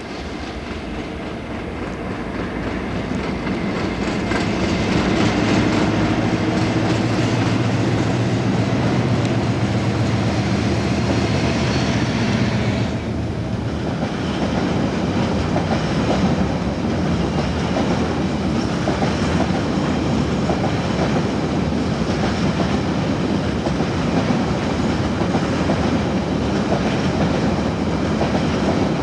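British Rail Class 56 diesel locomotive 56056 approaches under power, its Ruston-Paxman V16 engine note growing louder over the first few seconds, then dropping away suddenly about 13 seconds in as it passes. After that, the loaded container wagons of the binliner freight train roll past with a steady rumble and rhythmic clickety-clack of wheels on the track.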